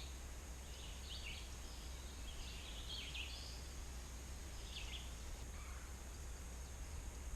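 Faint bird calls in short phrases, heard three times over a steady low hum of outdoor background noise.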